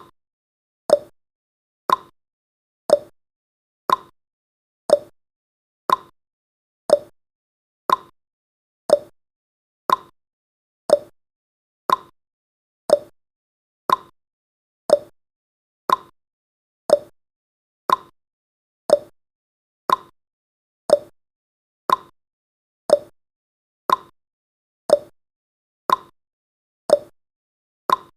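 Countdown timer's clock-tick sound effect: one short, sharp tick every second, evenly spaced, with silence between ticks.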